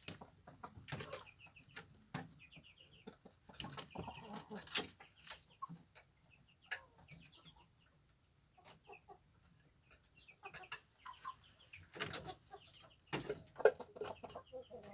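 Chickens clucking in short calls, with scattered sharp taps and rustles among them.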